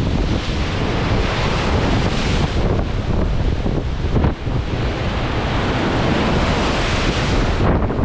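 Storm wind buffeting the microphone over the rushing hiss of heavy seas breaking along a ship's side. The hiss swells twice and falls away sharply near the end.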